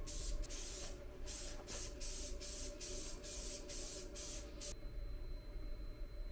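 Paint being sprayed in short repeated bursts, about two a second, as the mini-bike is painted. The spraying stops abruptly about four and a half seconds in.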